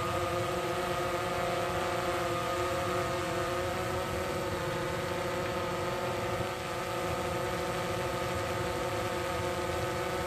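DJI Phantom 3 Professional quadcopter hovering, its four motors and propellers giving a steady buzz made of several held tones.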